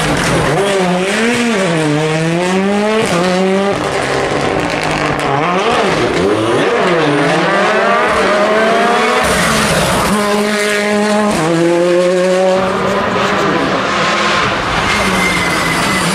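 Rally car engine revving hard on a special stage, its pitch rising and falling over and over as it accelerates and lifts, with a steadier high-revving stretch about ten seconds in.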